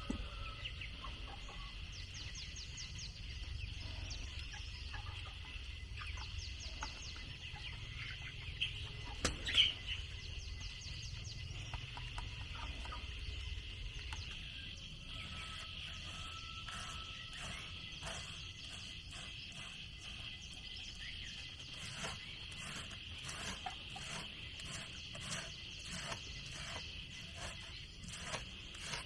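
Farmyard chickens clucking over a steady high-pitched hum. There is a sharp knock about a third of the way in, and near the end a run of short sharp strokes at roughly two a second.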